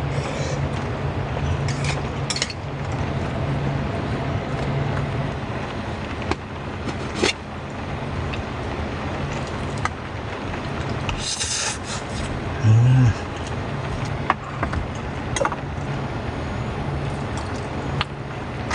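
Heavy rain falling steadily, with scattered small clicks and knocks and one short, loud low thump about 13 seconds in.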